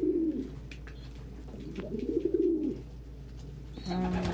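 Domestic pigeons cooing: low coos that rise and fall in pitch, one at the start and another about two seconds in, with a few faint clicks between.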